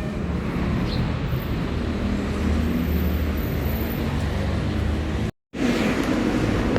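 Steady road-vehicle noise, a low rumble with an even hiss over it. It breaks off for an instant about five and a half seconds in and comes back slightly louder.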